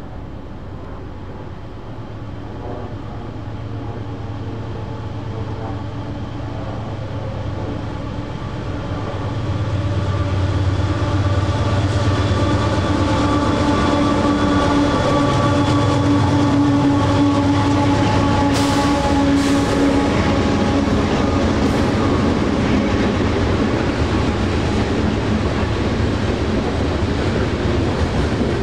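A train approaching and passing close by, growing louder over the first ten seconds, then holding loud with a steady hum and whine over the rumble of the wheels. A few sharp clicks come about two-thirds of the way through.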